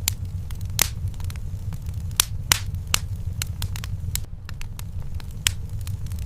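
Wood fire in a fireplace crackling: sharp, irregular pops and snaps, the loudest about a second in, two to three seconds in and near the end, over a steady low rumble.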